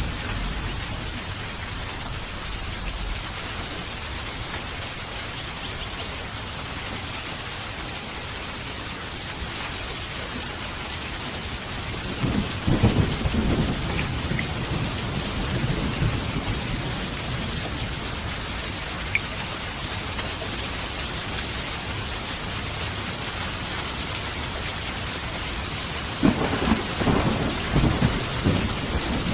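Steady heavy rain hissing, with two rolls of thunder rumbling low: one starting about twelve seconds in and lasting several seconds, another starting near the end.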